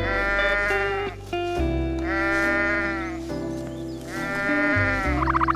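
Goat bleating three times, each a long wavering call of about a second, over calm background music.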